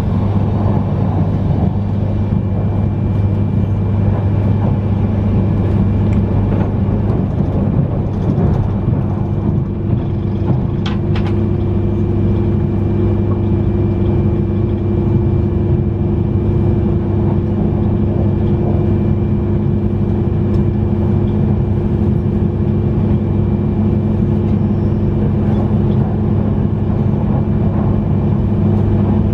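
Cabin noise of an E3-series Yamagata Shinkansen train running at speed: a steady rumble of wheels on rail under a low motor hum. A higher hum joins about nine seconds in, and there is a brief click around eleven seconds.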